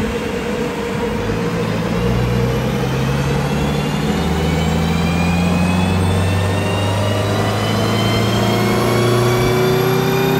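Maruti Baleno's naturally aspirated petrol engine pulling under load on a chassis dynamometer during a power run on the stock tune. The revs climb slowly and steadily from about a second in.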